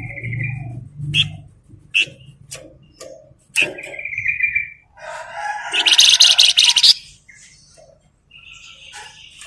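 A flamboyan songbird singing: short sharp chirps and held buzzy notes, then a loud, rapid chattering run of song from about five to seven seconds in.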